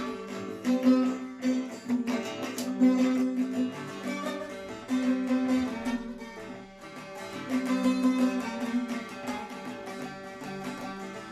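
Bağlama (saz) played solo in an instrumental passage of a Turkish folk song, with fast plucked strokes over ringing drone strings.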